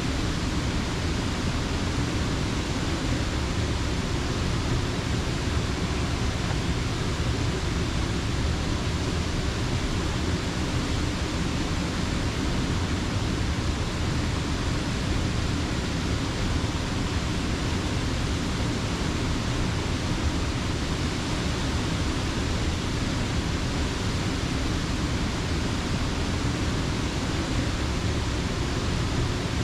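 Water spilling over a mill dam: a steady, even rush with no breaks or distinct events.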